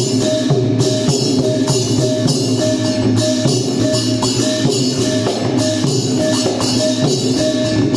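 Traditional Thai klong yao long-drum ensemble playing: long drums beating under cymbals clashing in a steady rhythm, with a short ringing metallic tone repeating at an even pace.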